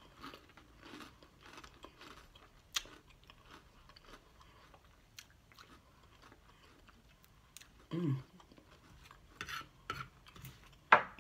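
Close-miked chewing of a mouthful of salad greens with ranch dressing, with soft, wet, crunchy bites at an uneven pace. A short hum comes about eight seconds in, and a sharp click sounds near the end.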